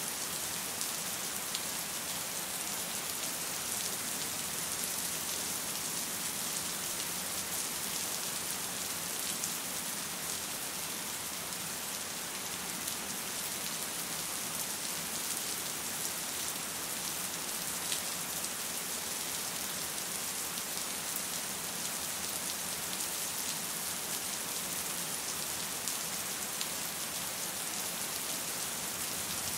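Steady rain falling, an even hiss with the odd sharper drop standing out.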